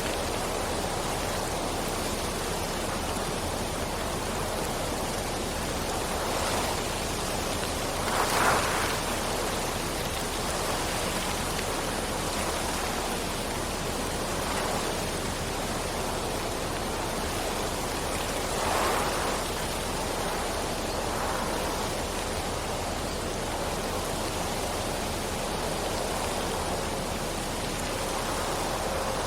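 Steady rain falling at night, an even hiss, with brief louder swells about eight and nineteen seconds in.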